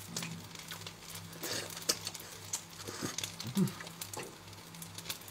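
Stir-fried kway teow (flat rice noodles) sizzling softly in a frying pan on a gas hob, with a few light clicks over a steady low hum.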